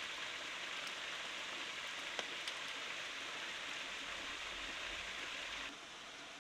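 Steady hiss of falling or running water, with a few faint ticks, that drops suddenly to a quieter hiss near the end.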